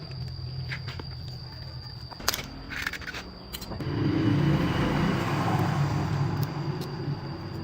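A machine's motor running with a steady low hum, a few sharp clicks and knocks a couple of seconds in, then growing louder and rougher about four seconds in before easing off.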